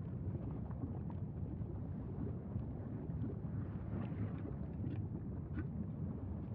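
Wind buffeting an outdoor microphone as a steady low rumble, with a few faint crackles in the second half.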